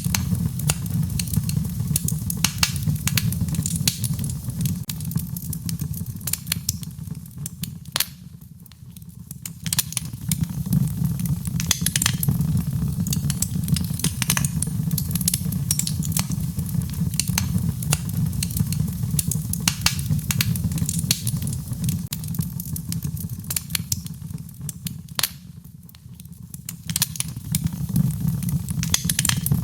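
Wood fire crackling and popping with many sharp snaps over a low, steady rumble, mixed with a hiss of rain. The sound thins out briefly twice, about a third of the way in and again near the end.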